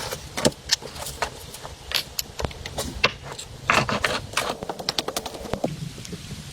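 Many sharp clicks and snaps coming quickly at irregular intervals.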